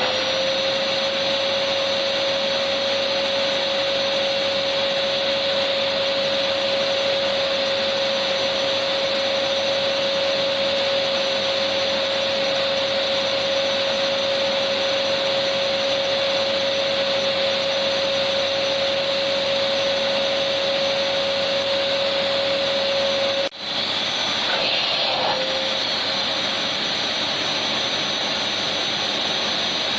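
Electric vacuum cleaner motor running steadily: a constant rushing hiss with a steady whine. About three-quarters of the way through, the sound dips for an instant, then the whine wavers briefly before settling again.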